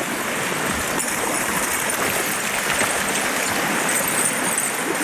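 Small waves washing in at the water's edge: a steady, even rush of water.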